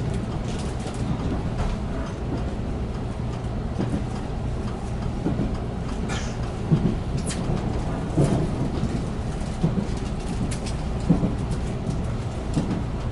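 Cabin running noise of a JR Central 373-series electric train on the move: a steady low rumble with a few short thumps from the wheels and rails at irregular intervals.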